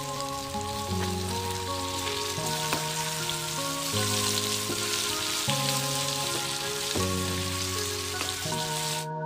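Chili sambal and pieces of fried fish sizzling in hot oil in a frying pan as they are stirred with a slotted metal spatula. The sizzle cuts off suddenly near the end.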